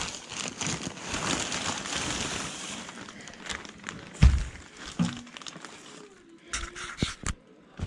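Plastic packaging crinkling as exhaust parts are handled in their box, fading after about three seconds. A loud thump follows about four seconds in, then a few lighter knocks and clicks.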